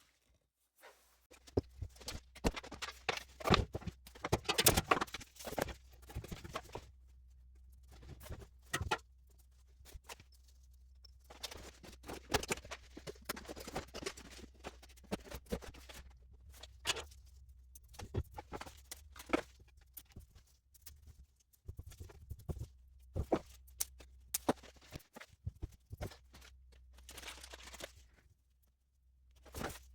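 Irregular clicks, taps and clatter of box fan parts being handled and fitted together during reassembly, over a low steady hum.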